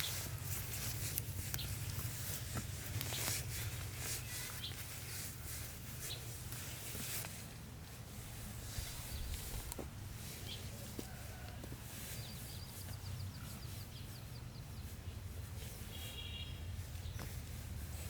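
Rural outdoor ambience with a few short bird chirps, one near the end, over scattered clicks and rustles and a low steady rumble.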